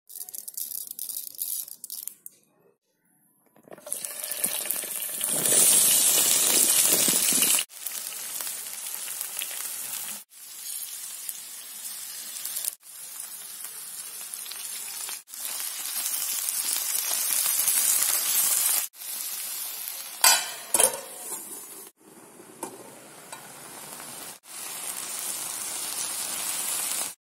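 Chopped okra, small onions and tomato sizzling in hot coconut oil in a frying pan as they are stirred. The sizzle cuts off and restarts abruptly every few seconds, and a few sharp clinks come about two-thirds of the way through.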